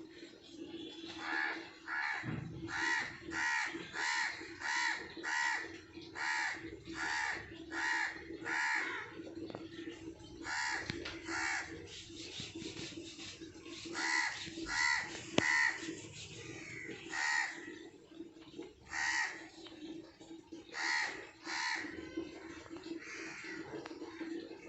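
Crows cawing over and over, in runs of short harsh caws about two a second, with a steady low hum underneath.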